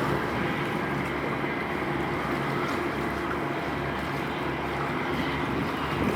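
A boat's engine running steadily, a low even hum with wind and water noise over it.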